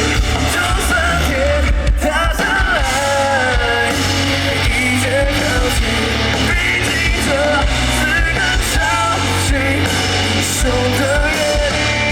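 Live rock band playing loudly, with guitars and a heavy low end under a singer's voice carrying the melody.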